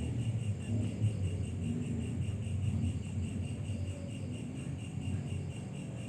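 Insect chirping in a steady pulsing rhythm, a few pulses a second, over a low rumble.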